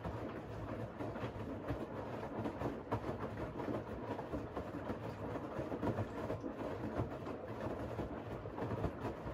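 Siemens iQ700 WG56B2090 front-loading washing machine running a wash cycle: a steady rumble from the turning drum with many small irregular clicks.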